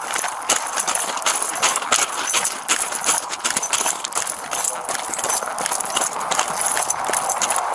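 Quick, irregular footsteps and clatter of gear and clothing rubbing against a body-worn camera as the wearer moves.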